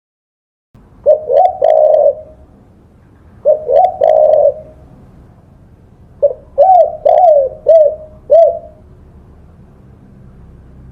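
Spotted dove (tekukur) cooing in three phrases of rising-and-falling notes, the third longer with about five notes. The cooing starts just under a second in, after silence.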